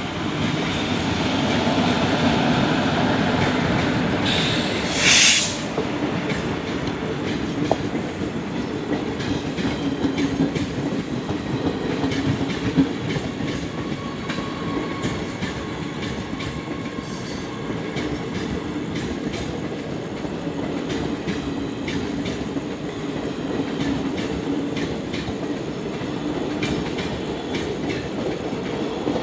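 A train moving along the rails with a steady rumble and rail clatter, and a faint steady squeal. About five seconds in there is a short, loud burst of hissing.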